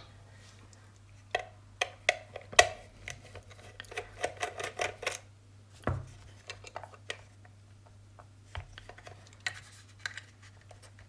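Sharp clicks and light clatter of hard plastic being handled, a cheap handheld multimeter and its accessories being unpacked; the clicks are busiest in the first half and sparse afterwards. A low steady hum runs underneath.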